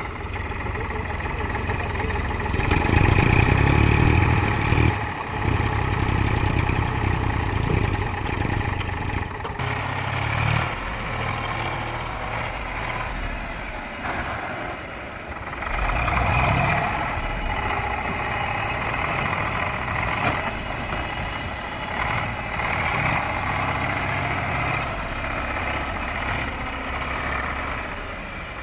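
Heavy vehicle engine running at idle. It swells louder a few seconds in and again about halfway through, with brief dips between.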